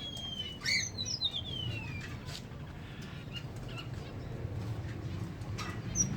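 Bird calls: two clear whistled notes that fall in pitch in the first two seconds, then a few faint short chirps, over a steady low hum.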